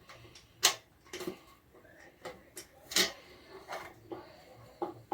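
A few scattered sharp clicks and light knocks, like hard parts of the feed pellet machine being handled; the loudest come about a second in and again near the middle.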